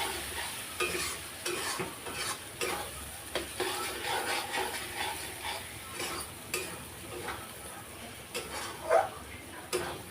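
Chicken and spices frying in oil in a kadhai while being stirred: a steady sizzle with irregular scrapes and knocks of the spoon against the pan.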